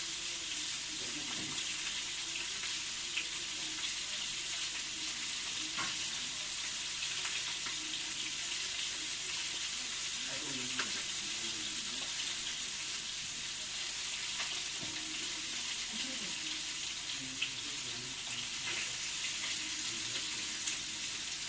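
Food frying in a small cooking pot, a steady sizzling hiss with a few faint ticks.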